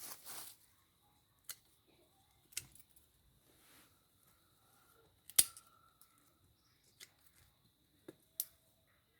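Scattered sharp clicks or snips, about half a dozen, the loudest about five and a half seconds in, over a faint steady high-pitched whine.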